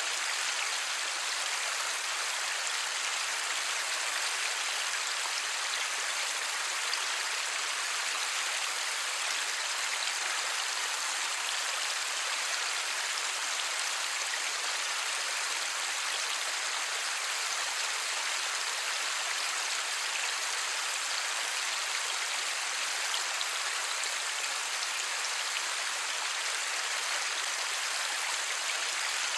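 Steady light rain falling with no thunder, an even hiss that stays constant throughout.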